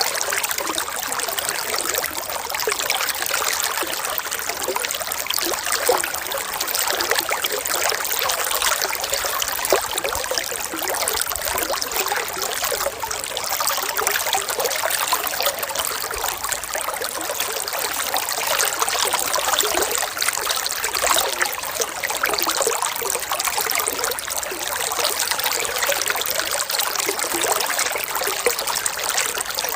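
Running water trickling steadily in an even, unbroken rush.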